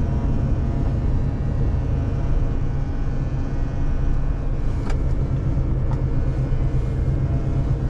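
Renault truck's diesel engine running steadily, heard from inside the cab while driving under load, with a sharp click about five seconds in and a fainter one about a second later. This is the strange, annoying noise the driver has never heard before and thinks comes from plastic trim in the cab.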